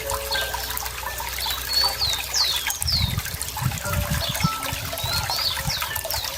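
Running water trickling steadily, with low gurgles through the middle. A small bird gives a few quick, high, downward-sweeping chirps about two seconds in and again near the end.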